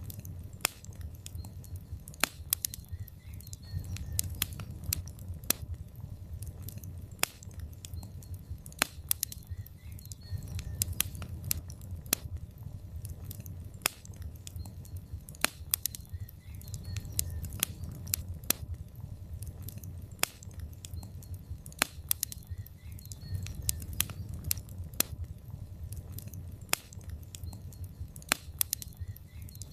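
Log fire crackling in a fireplace: frequent, irregular sharp pops and snaps over a steady low rumble of the flames.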